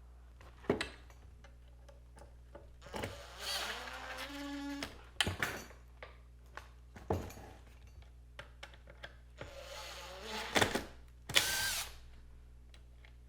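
A power drill running in a few short bursts, one of them with a rising whine as the motor spins up, among scattered clicks and knocks of parts being handled.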